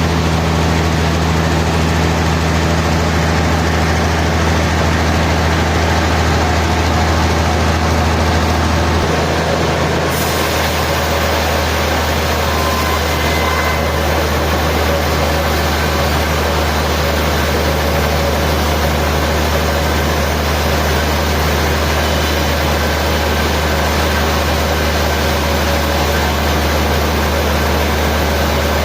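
Sawmill machinery running steadily with a constant low engine or motor hum and a noisy wash over it. About ten seconds in the hum shifts and the sound brightens.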